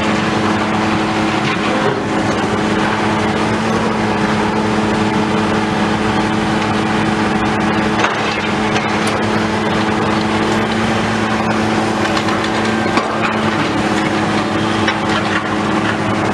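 Heavy demolition machinery running steadily under load, with continuous crunching, splintering and cracking as building structure and debris are torn down and broken up.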